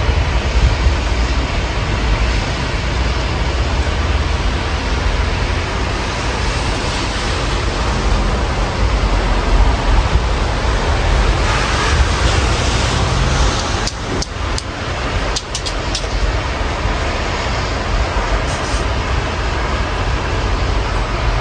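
Rain heard through an open window over city traffic: a steady hiss of rain and wet road with a low rumble of passing vehicles. The hiss swells for a couple of seconds around the middle, and a few sharp clicks come soon after.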